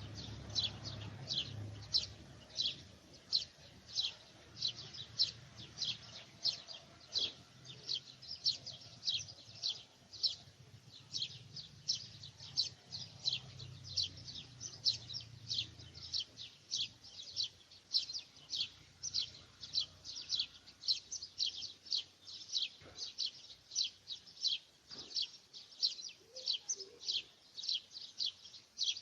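A bird repeating a short, high chirp over and over at an even pace, about two or three times a second.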